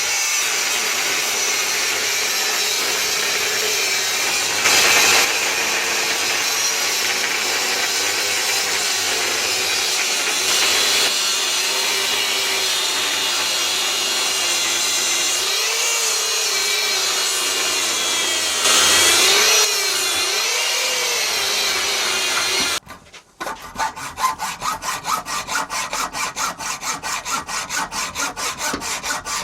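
A loud, steady rushing noise with a faint wavering whine, from a torch or power tool, that stops suddenly about three-quarters of the way in. It is followed by a hacksaw cutting mild steel bar held in a vice, with quick, even strokes at about three to four a second.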